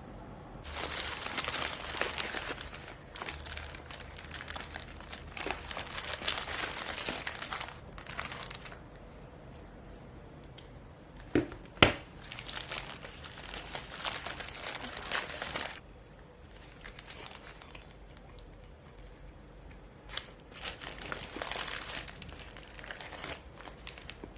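Crinkly packaging or wrapping being handled: three spells of rustling and crumpling, with two sharp clicks around the middle, the second one loud.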